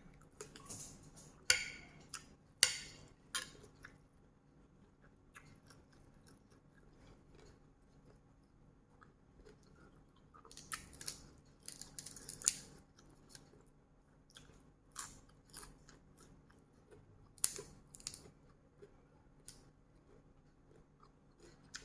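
A person chewing and crunching food, with scattered short crunches that come in clusters near the start, around the middle and about three quarters through.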